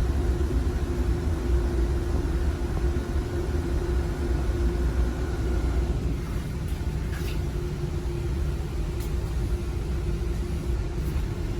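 Steady low machine rumble with a constant hum, easing slightly about halfway through, and a few faint ticks.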